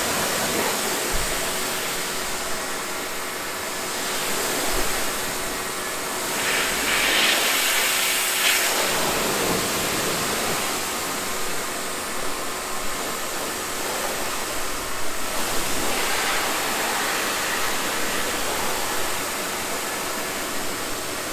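Steady hiss of water spraying, as from a pressure washer jet on a car, growing louder and brighter for a couple of seconds about seven seconds in, with a faint steady hum underneath.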